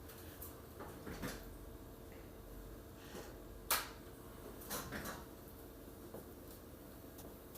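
A few scattered knocks and clatters of objects being handled, the sharpest a bit under four seconds in, over a faint steady hum.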